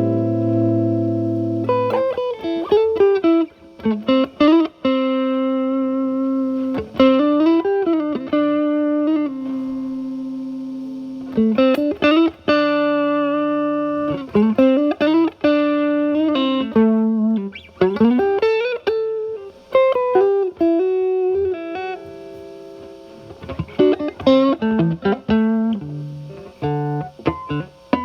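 Stratocaster with single-coil alnico pickups through a Paul Cochrane Timmy transparent overdrive at low gain into a Marshall Valvestate's clean channel, set for a cleaned-up tone. It plays single-note lead lines with string bends, some long held notes and quick picked runs.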